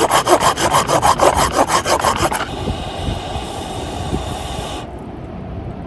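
A small hand saw cutting through firewood in fast back-and-forth strokes, about five a second. About two and a half seconds in, the strokes give way to a smoother, steady rasp, which stops shortly before the end.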